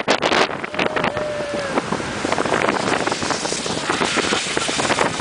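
Loud wind buffeting the microphone in irregular gusts, over a steady rushing noise from towing at speed over sand.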